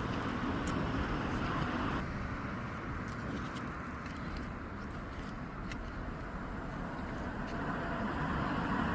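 Steady roadside ambience with the hiss of road traffic. The background changes abruptly about two seconds in.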